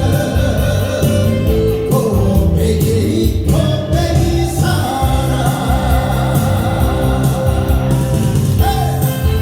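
A Korean song performed with a singing voice over band accompaniment at a steady, loud level.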